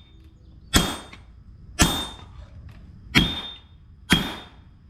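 Forging hammer striking hot steel on an anvil: four blows about a second apart, each with a brief ringing tone.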